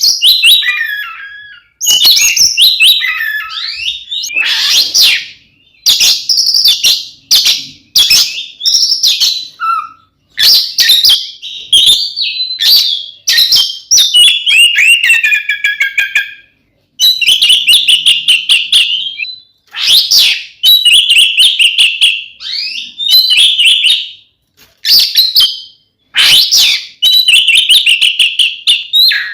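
Oriental magpie-robin (kacer) singing loudly in full fighting song ('ngeplong'): rapid, varied phrases of whistles, sweeping notes and chattering trills, broken by short pauses.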